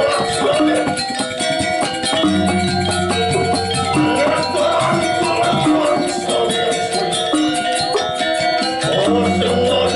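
Balinese gamelan music: sustained ringing metallophone tones over fast, dense cymbal strikes, with a low steady tone coming in about two seconds in.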